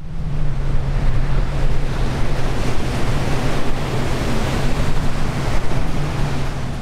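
Sea surf and wind blowing on the microphone make a loud, even rush. A steady low hum runs underneath.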